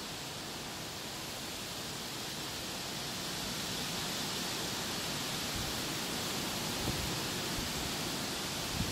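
Strong storm wind rushing through trees, a steady noise that swells a little about three seconds in, with a couple of brief low thumps near the end.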